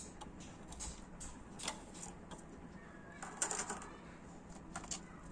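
Small pet birds moving about in a wire cage: scattered light clicks and scratches of beaks and feet on the bars, with a brief flurry about three and a half seconds in.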